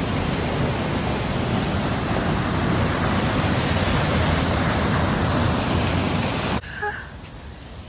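Waterfall's rushing water as a steady, loud hiss that cuts off abruptly about six and a half seconds in.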